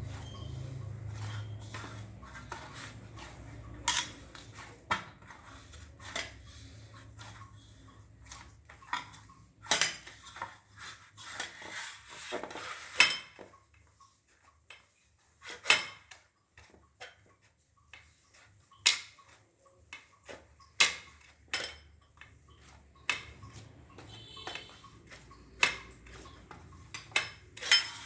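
Chhana dough being kneaded by hand in a plate, with irregular clinks and knocks of the plate.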